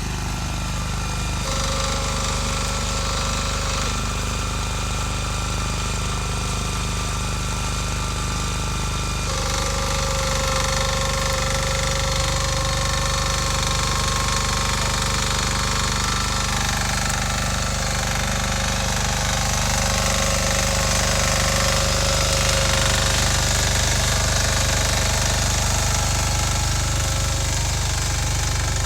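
Two-wheel walking tractor with a rear-tine tiller, its engine running steadily.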